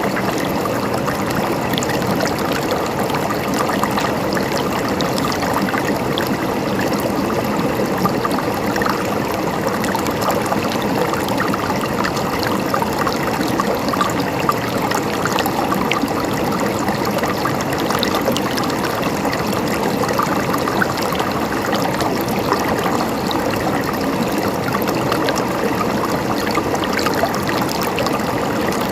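River water running and splashing steadily over rocks, a constant rushing babble with small splashes throughout.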